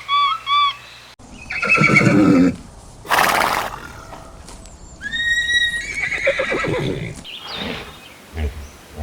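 A series of farm animal calls, several separate cries one after another, with a short sharp noisy burst about three seconds in. Before that, a run of quick whistled chirps stops within the first second.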